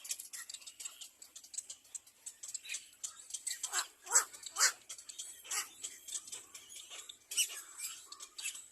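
Nestling birds cheeping in the nest: a fast run of thin, high chirps and clicks, with a few louder squeaks that drop in pitch about four seconds in and again a few seconds later.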